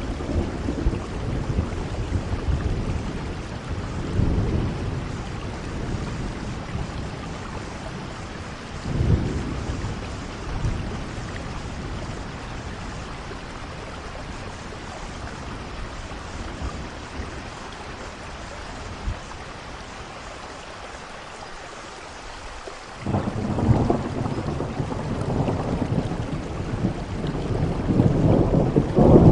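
Steady rainfall with rolling thunder: a few low rumbles swell and fade in the first ten seconds, then a long rumble starts suddenly about three-quarters of the way through and grows louder toward the end.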